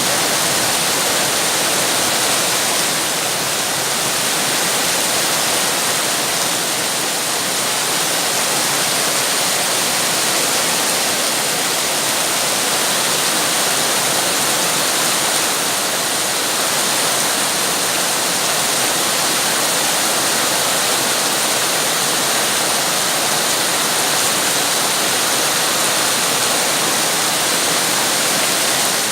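Heavy rain falling steadily: a loud, even hiss with no single drops standing out.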